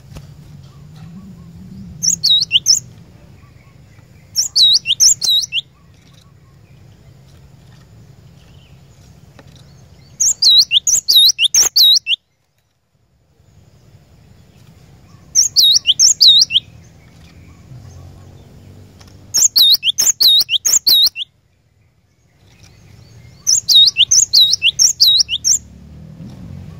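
Cinereous tit (glatik batu) singing: six separate phrases, each about a second of fast, repeated high notes, spaced a few seconds apart over a faint low hum.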